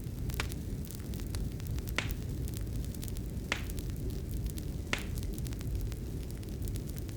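Fireplace fire crackling over a steady low rumble, with scattered small snaps and four sharper pops, spaced about a second and a half apart.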